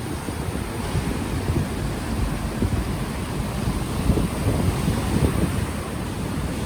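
Gentle ocean waves washing ashore, with wind buffeting the unshielded microphone in low gusty rumbles.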